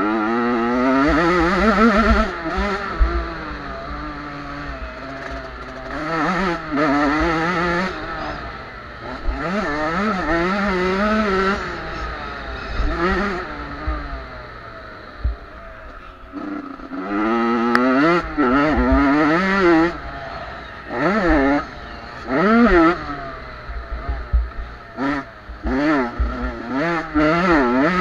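Several small two-stroke youth motocross bikes revving hard, their engine notes climbing and dropping again and again as they accelerate, shift and back off around the track.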